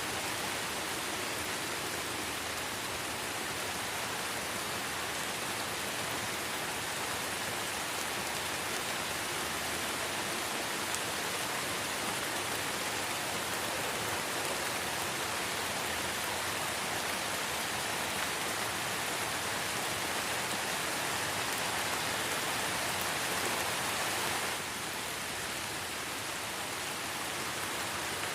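Light rain falling in a forest: a steady, even hiss of drops, dipping a little in level near the end.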